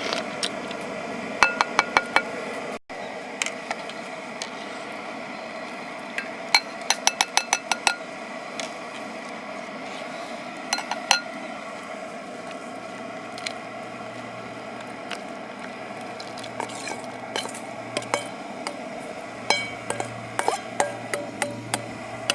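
A metal utensil clinking against a cooking pot in quick runs of several ringing taps, heard three times.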